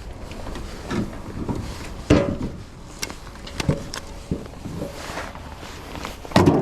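Split firewood pieces clunking and knocking against each other as they are handled and tossed. The knocks come irregularly, with the loudest about two seconds in and another near the end.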